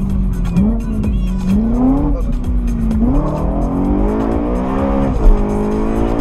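BMW M3 E92's V8 accelerating hard, heard from inside the cabin. The engine note rises and falls twice, then makes one long climb through the revs that drops sharply at an upshift about five seconds in, with a brief thump at the shift.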